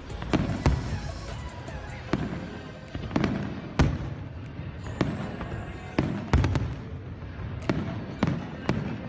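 Aerial fireworks bursting: a run of sharp bangs at irregular intervals, roughly one a second, each trailing off in a rumbling echo.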